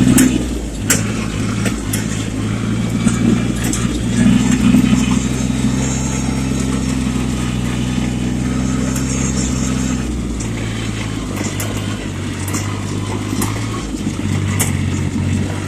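Yanmar compact tractor's diesel engine running steadily, its note shifting a little as the foot throttle bounces, with occasional clicks and knocks.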